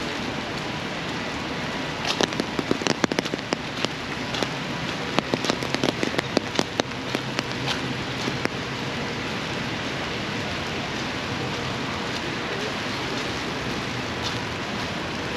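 Steady rain falling, with a spell of loud, sharp taps about two seconds in that dies away after a few seconds.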